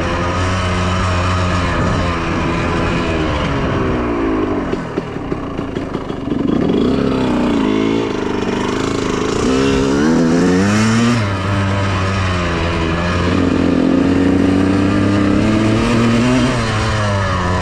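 Honda CR125R two-stroke single-cylinder dirt bike engine under way, its pitch rising and falling with the throttle. About five seconds in it drops to low, uneven revs, then revs back up and holds a steadier pitch.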